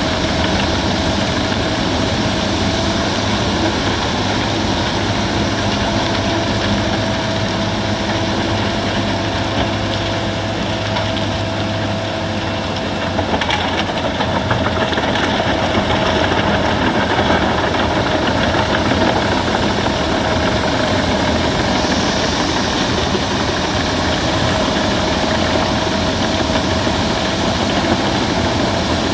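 Albach Diamant 2000 wood chipper running under load while chipping branches, a steady machine drone with a high whine. The whine sags in pitch for several seconds and then climbs back. Partway through there is a sharp crack, and the sound grows a little louder after it.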